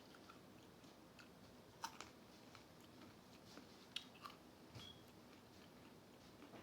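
Faint chewing and biting of fried chicken, with a few short crisp clicks, the loudest about two seconds and four seconds in.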